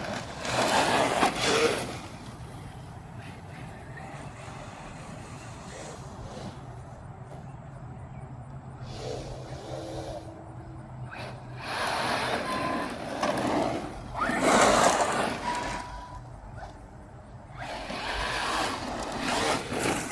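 Arrma Mojave 4S radio-controlled truck being driven, its motor and tyres coming up loud in several short runs: one about a second in, two in quick succession past the middle, and one near the end, with quieter stretches between.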